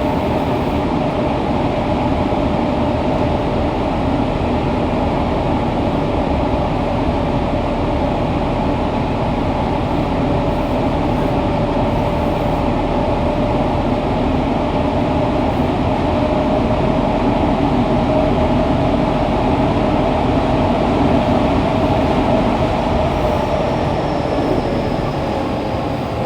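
Fukuoka City Subway 2000-series train with Hitachi GTO-VVVF drive running through the tunnel: steady running noise with a steady whine from the traction motors, the whine dropping in pitch near the end as the train begins to slow.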